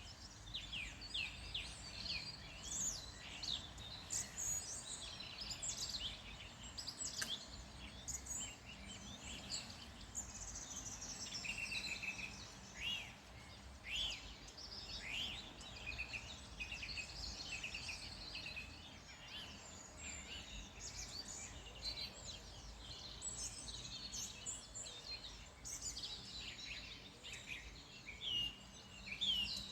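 Several songbirds singing and chirping at once, with many quick notes and short trills, over a steady low rumble.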